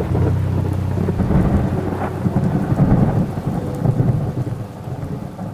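Steady rain with a long, rolling rumble of thunder; the song's last chord dies away in the first second.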